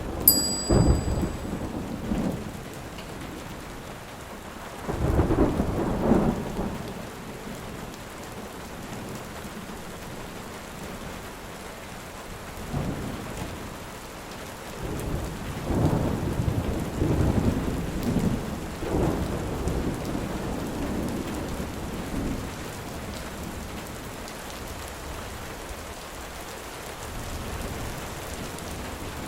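Steady rain with rolling thunder: a constant hiss of rain, with several deep rumbles of thunder swelling and fading, the loudest just after the start, about five seconds in, and a long rolling stretch in the second half.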